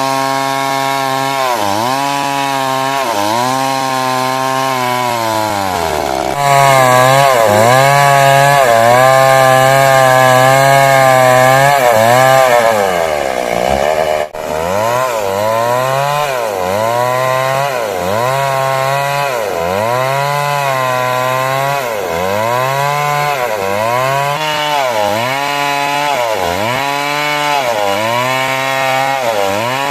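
A two-stroke 382 chainsaw cutting wood into 6 cm square battens, its engine pitch dipping under load and recovering about once a second as the chain bites. In the middle it runs louder and higher for several seconds, drops briefly, then goes back to the rhythmic dipping.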